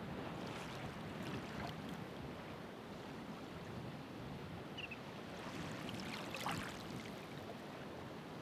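Ocean waves washing on the shore: a steady rush of surf, with louder splashing surges about a second in and again around six seconds in.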